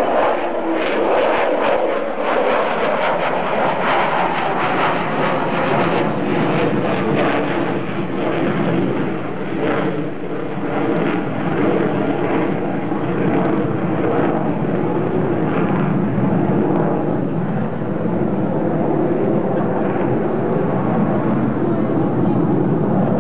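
Avro Vulcan bomber's four Rolls-Royce Olympus turbojets, a loud, steady jet roar as the aircraft flies its display.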